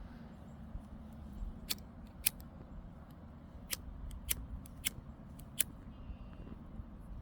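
A hiker's footsteps over rocky ground, with about six sharp clicks scattered through, over a steady low rumble.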